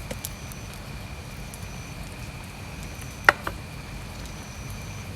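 A sharp click about three seconds in, followed closely by a softer one, over steady low background noise and a faint steady high tone.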